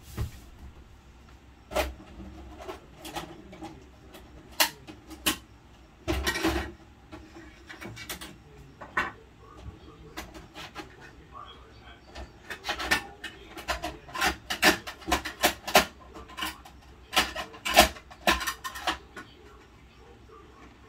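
Plastic clicks, knocks and scraping from a Bruder toy garbage truck and its toy bins being worked by hand. There is a cluster of sharper knocks about six seconds in and a busy run of clicks from about twelve to nineteen seconds.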